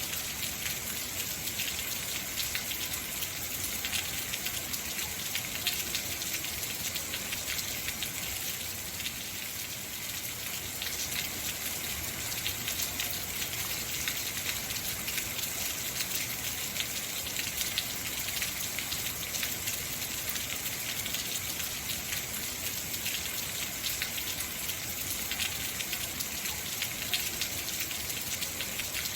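Heavy rain falling steadily, a dense hiss of many drops with no letup.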